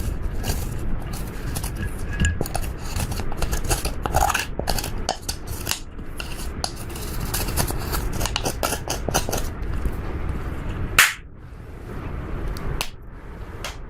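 Slime being kneaded and stretched by hand while eyeshadow is mixed in: rapid sticky crackling and popping clicks over a low squelch, with one sharp loud pop about eleven seconds in.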